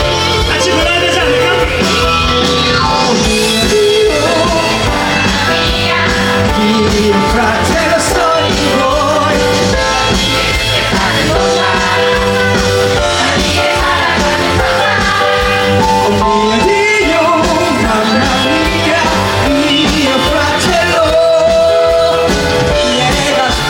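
Live band playing an upbeat rock-style song while the cast sings and the audience sings along.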